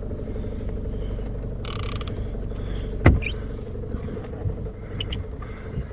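Big-game fishing reel being cranked against a strong bluefin tuna, its mechanism clicking and creaking rapidly over a steady low rumble, with one loud knock about three seconds in.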